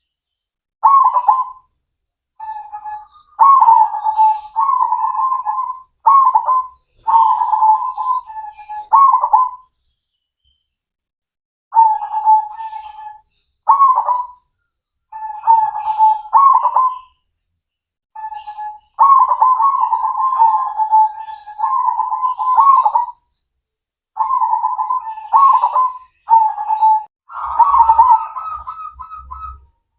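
Zebra dove (perkutut) singing its cooing song in repeated phrases of quick notes, with short pauses between them. It is a lure song of the kind played to set young doves singing.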